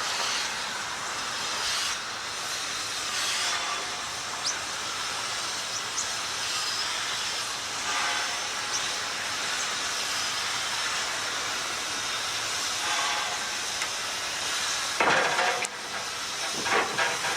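Steam locomotive letting off a steady hiss of steam. A louder blast of steam comes about fifteen seconds in, followed by a few sharp knocks near the end.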